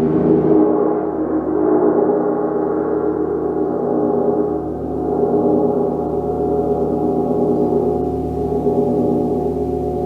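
A gong ringing in a sustained, dense wash of many overlapping tones. Its bright upper shimmer dies away in the first second or two, and the sound swells and eases every few seconds as the gong is kept going.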